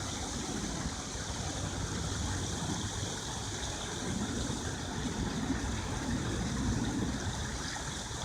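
Steady outdoor background noise: an unbroken low rumble with a hiss over it, with no distinct events.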